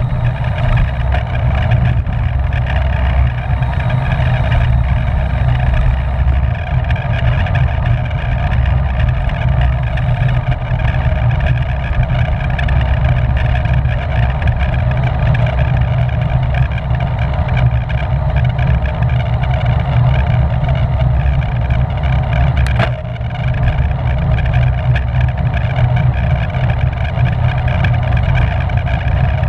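Steady rushing wind noise on a microphone carried on a road bike at race speed, with a low rumble underneath; a single sharp click about two-thirds of the way through.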